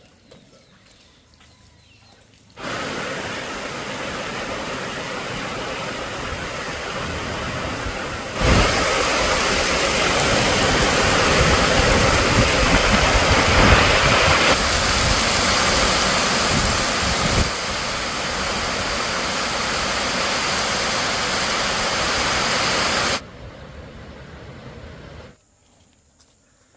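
Storm noise: a steady rushing of wind and rain in several stretches that start and stop abruptly, loudest in the middle.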